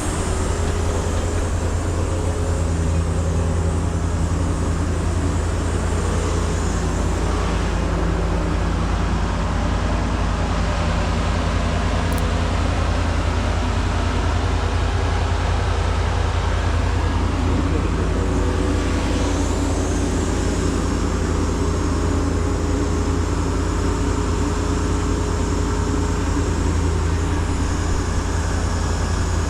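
Heavy diesel engine running steadily at a constant pace, a deep even hum that does not rise or fall.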